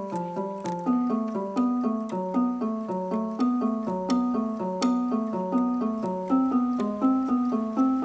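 Electronic keyboard playing a steady, repeating run of short notes, about four or five a second, in a piano-like tone.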